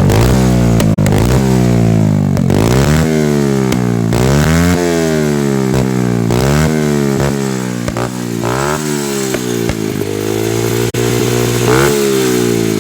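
Single-cylinder four-stroke engine of a Honda XR70R pit bike, big-bored to 88cc and running through a full aftermarket exhaust. It is revved again and again, the pitch climbing and dropping back about every two seconds, then held steadier and higher near the end.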